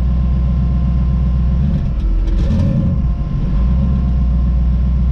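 Twin-turbo Camaro engine running steadily while driving, with a low drone. About two seconds in, the engine note changes for a second or so, with a brief hiss and rattle, then settles back to the steady drone.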